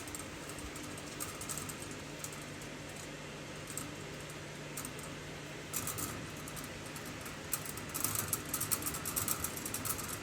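Light clicks and small metallic taps from a compression fitting being worked onto 1/4-inch copper tubing by hand. They become a quick run of ticks over the last couple of seconds.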